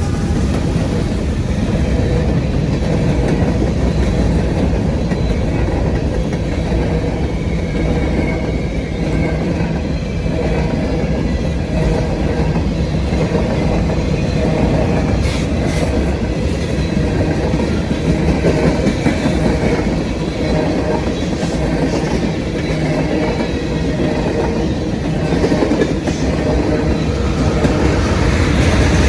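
CSX manifest freight train M692 rolling past, its cars' steel wheels running on the rail in a steady, continuous rumble.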